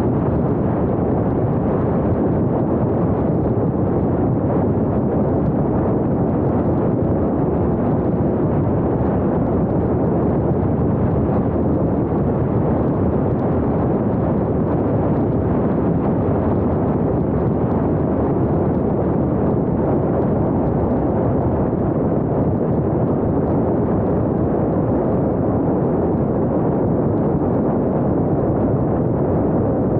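Steady, loud rumble of wind and road noise from a moving car, picked up by a small action camera's microphone, with no let-up or change.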